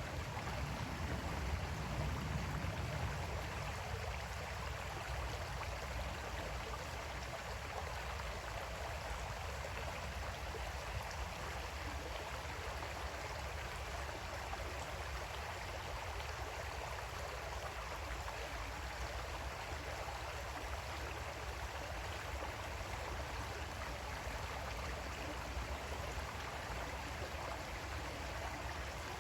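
Creek water flowing steadily, a continuous rush with no breaks.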